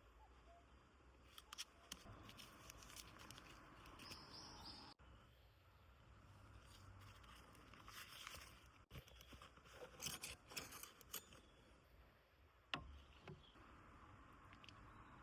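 Near silence with faint, scattered small clicks and rustles, like small objects being handled, over a low steady background; one sharper click near the end.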